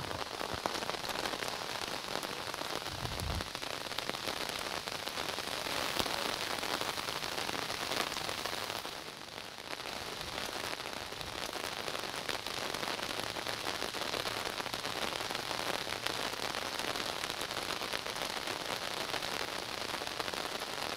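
Steady rain falling on wet pavement, an even hiss of drops that eases briefly about nine seconds in.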